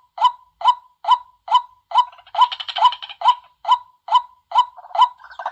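White-breasted waterhen calling: short, loud 'kwak' notes repeated evenly, about two a second, with a burst of overlapping chattering calls about two seconds in. It is a recorded call of the kind played to lure waterhens.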